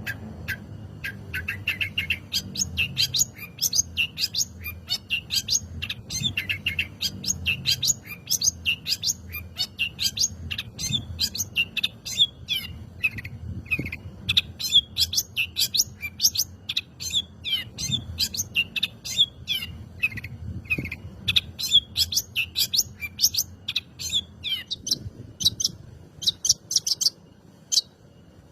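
Long-tailed shrike (cendet) singing a fast, continuous run of high chirps and trills that thins out near the end.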